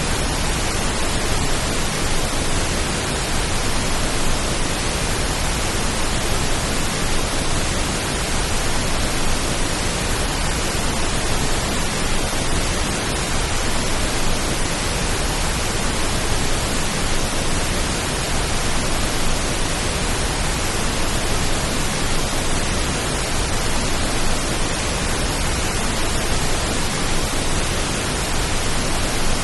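Steady pink noise: an even, unbroken hiss, offered as a rain-like calming sound.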